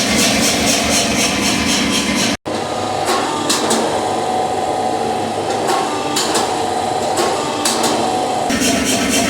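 Hammer blows on hot steel while forging an axe head. A fast, even run of strikes, about five a second, is cut off abruptly. Then come a few scattered single blows over a steady hum, and the fast strikes start again near the end.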